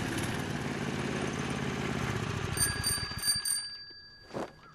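A small motorbike engine running and then dying away, as a bicycle-style bell is rung about four times in quick succession, its ring lingering and fading.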